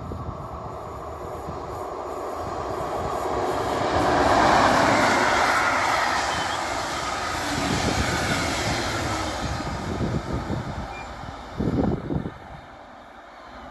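A train passing by: the rumble and rail noise build to their loudest about four seconds in and then fade away, with a few short low thumps near the end.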